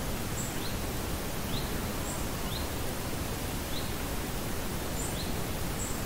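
Steady outdoor hiss with a small bird's short, high chirps repeating about once a second over it.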